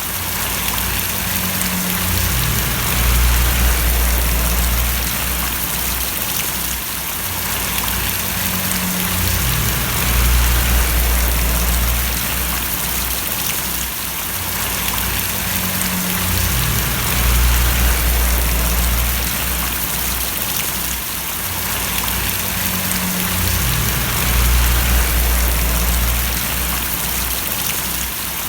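Steady rain splashing down, a dense even hiss, with a low rumble underneath that swells and fades about every seven seconds.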